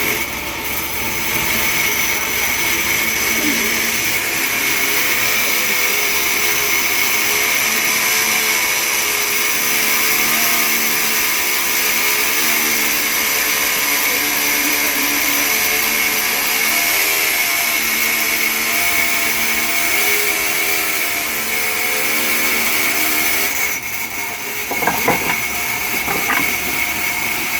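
Sawmill saw running steadily with a high whine while cutting mahogany; the lower hum of the machine wavers in pitch as the load changes. About three-quarters of the way through the whine dips and a few knocks sound.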